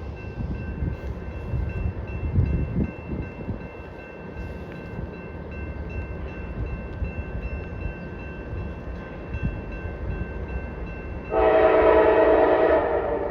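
CSX freight locomotives rumbling past, with a faint steady high tone over them, then a loud blast of the locomotive's multi-chime air horn about eleven seconds in, lasting about a second and a half.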